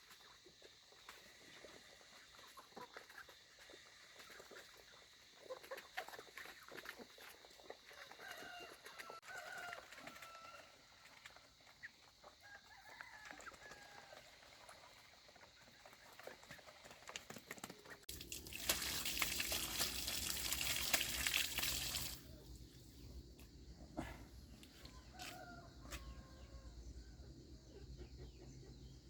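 Domestic chickens clucking and calling, with scattered small clicks. About two-thirds of the way in, a loud hissing rush lasts about four seconds. A steady low hum then sets in and keeps going.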